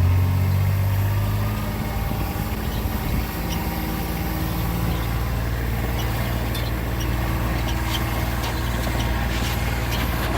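A motor vehicle's engine running, a little louder for the first second or so, then a steady hum.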